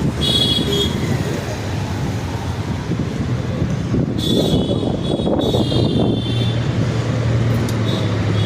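Street traffic noise: a continuous rumble of vehicles running and passing, with a steady low hum that grows stronger near the end. High, multi-toned sounds, possibly horns or voices, come briefly near the start and again for about two seconds from four seconds in.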